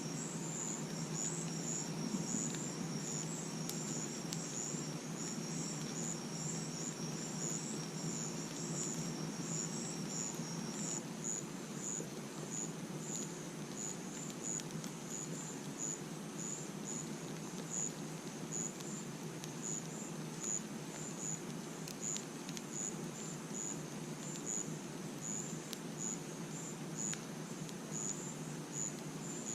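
Crickets chirping at night in an even, pulsing rhythm, with a second insect's continuous high trill that stops about a third of the way through. A few faint crackles from a campfire sound under a steady low background hiss.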